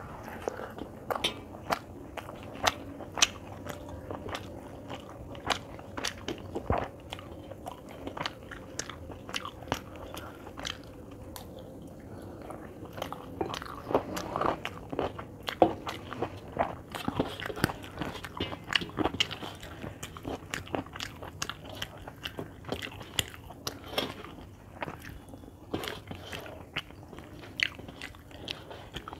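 Close-up chewing and mouth sounds of someone eating rice and chicken by hand: many small, irregular smacks and clicks.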